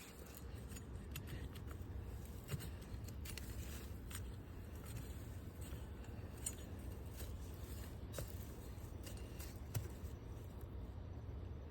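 Hand tool scraping and crunching through dry garden soil while digging for potatoes, with scattered short clicks and scratches.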